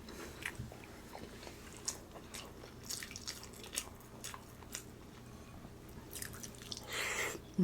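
Close-miked chewing: soft wet mouth clicks and smacks scattered through, with a brief louder rush of noise near the end.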